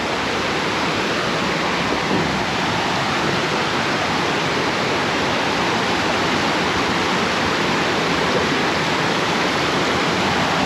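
Waterfall rushing close by, a loud, steady roar of falling water.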